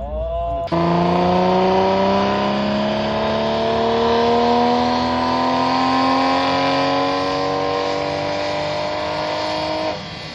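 An engine running under steady acceleration, its pitch climbing smoothly and without a break for about nine seconds over a loud roar. It starts abruptly just under a second in and cuts off shortly before the end.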